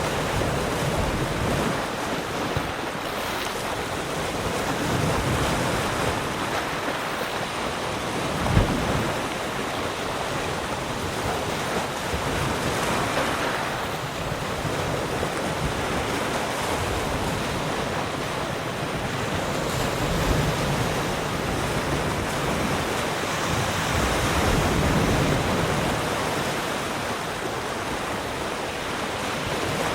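Sea surf washing onto the shore: a continuous rushing of water that swells and eases every few seconds as waves come in. About a third of the way through there is a brief low thump.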